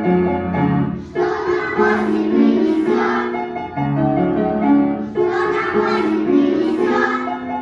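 A group of young children singing a Russian folk song to piano accompaniment. The voices come in as two phrases, about a second in and again about five seconds in, over steady piano chords.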